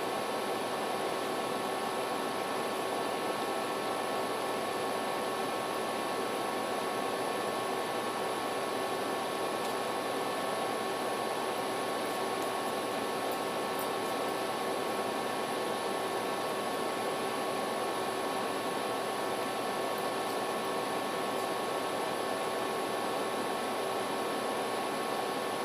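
Steady background hiss with a few faint constant hum tones, unchanging throughout.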